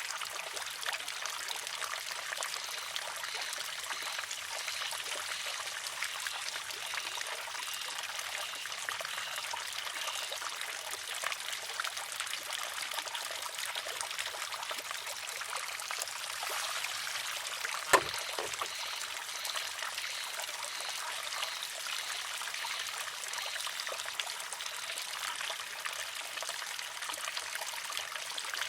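Water trickling steadily into and out of a wooden shishi-odoshi, with one sharp clack about two-thirds of the way through: the filled arm tipping and striking its rock.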